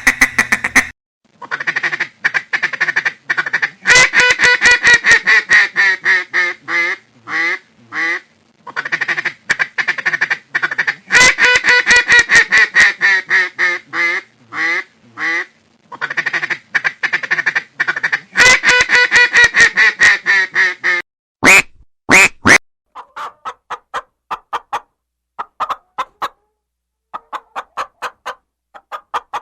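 Ducks quacking in loud, rapid runs of calls with brief pauses between the runs. In the last third the calls become sparser, shorter and quieter.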